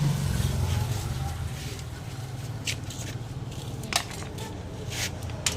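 Scattered sharp snips and clicks, about a second apart, of hand work on small parts such as wire being cut. They sit over a low engine rumble that fades out within the first two seconds.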